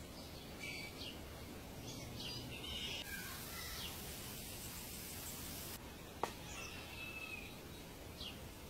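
Birds chirping in short, scattered calls over a steady outdoor hiss, with one sharp click about six seconds in.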